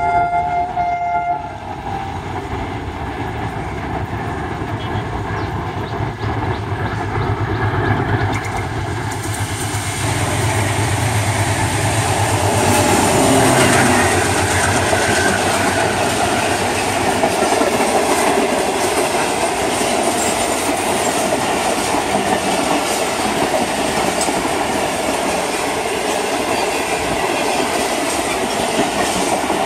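Pakistan Railways AGE-30 diesel-electric locomotive sounding its horn, which cuts off about a second in. Its engine rumble grows as it approaches and passes, then the passenger coaches roll by with steady wheel-on-rail clatter.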